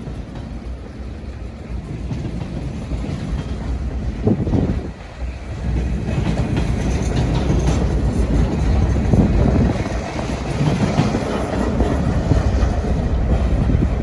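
Train rolling past on the tracks, a steady low rumble and rail noise that grows louder about six seconds in.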